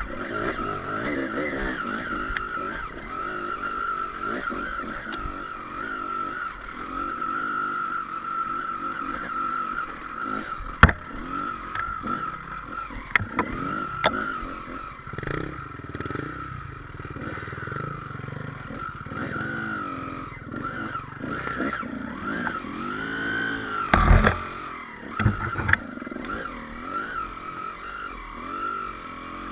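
Trail motorcycle engine running and revving up and down as it rides a dirt trail, with a few sharp knocks and clatter from the rough ground, the loudest near the end.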